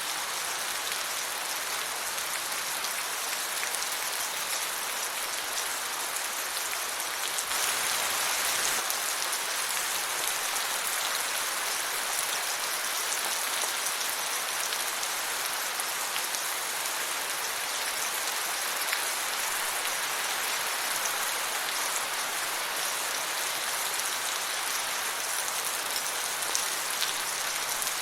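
Steady rain falling, an even hiss of drops with scattered tiny ticks, briefly a little heavier about a quarter of the way in.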